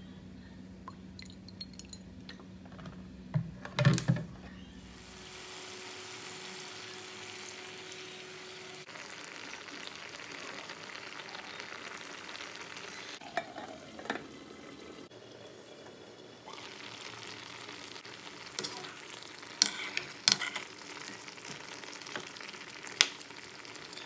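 Chicken pieces sizzling in a dark sauce in a metal wok while being stirred, with a few sharp clinks of the utensil against the pan, once about four seconds in and several times near the end.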